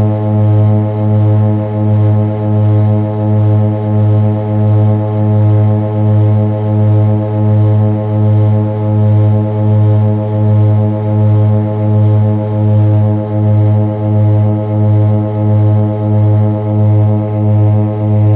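Seaplane's propeller engines running in a steady, loud drone, heard from inside the cabin, the sound swelling and fading about once a second.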